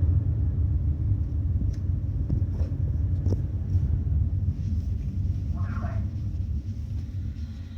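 Large ferry's machinery rumbling low and steady as the ship manoeuvres to berth, heard from inside a passenger cabin; the rumble eases off near the end. A few faint clicks sound over it.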